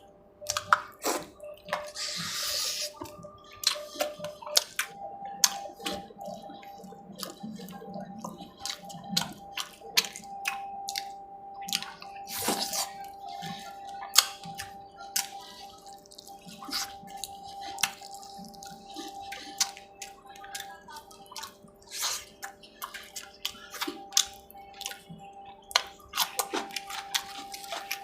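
Close-up eating sounds: wet, sticky clicks and smacks from chewing and from hand-mixing rice with fish curry, coming irregularly several times a second, with a couple of brief louder rustling bursts.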